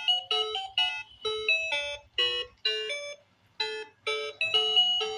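A children's learning laptop toy's small speaker playing a tune of electronic beeping notes, two or three a second, with a short pause about three seconds in.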